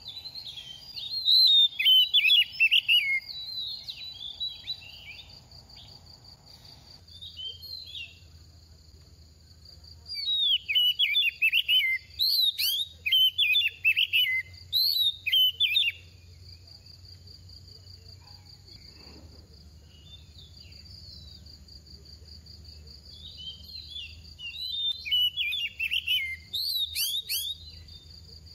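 Oriental magpie-robin singing in three bouts of rapid, varied whistled phrases. A steady high insect buzz runs underneath.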